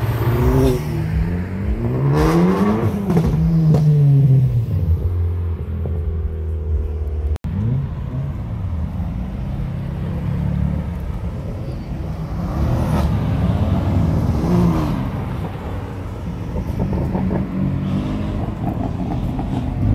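Car engine revving, its pitch climbing and falling repeatedly. After a sudden cut it settles to a steadier running note, with a few more brief revs.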